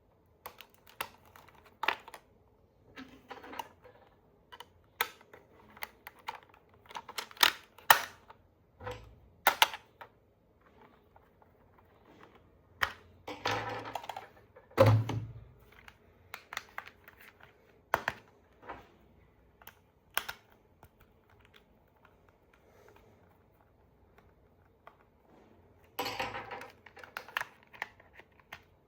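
Irregular sharp clicks and taps of hard plastic toy parts and packaging being handled, with two short bursts of rustling and one duller knock about halfway through.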